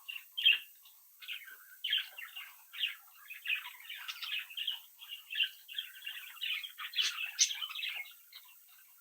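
Budgerigars chattering and warbling, a busy run of varied chirps and squeaks with a few sharper, louder chirps.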